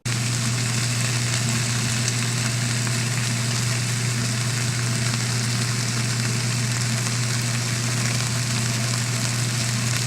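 Sliced smoked pork belly sizzling in a frying pan: a steady hiss over a low, constant hum.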